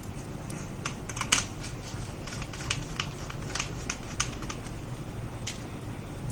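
Irregular light clicks and taps of small parts and plastic being handled while a laptop motherboard is fitted back into its chassis, over a low steady hum.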